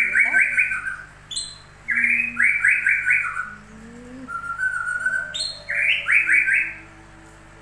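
A songbird singing, repeating the same short phrase about every four seconds: a sharp high note followed by a quick run of four or five notes stepping down in pitch.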